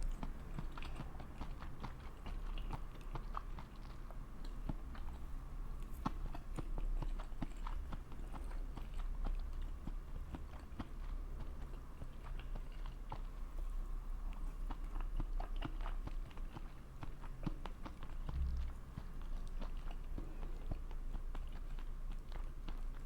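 A person chewing a meal of fried rice noodles and sausages close to the microphone: a continuous stream of small wet mouth clicks and soft crunches.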